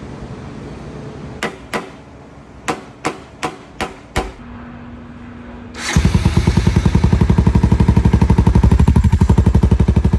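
Several sharp knocks, then a brief steady hum. About six seconds in, a Honda 350 ATV's single-cylinder engine starts and runs loudly, its exhaust popping in a fast, even beat of about ten pulses a second.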